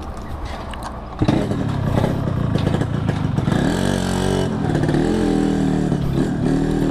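Yamaha RX-King's two-stroke single-cylinder engine running, getting louder about a second in, then revved up and down in a series of short blips.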